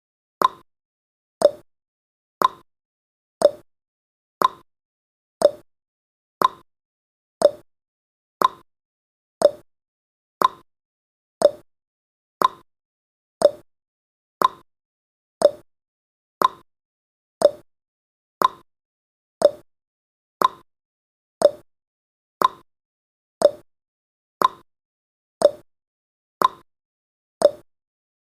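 Countdown timer's ticking sound effect: one short, sharp tick every second, evenly spaced like a clock.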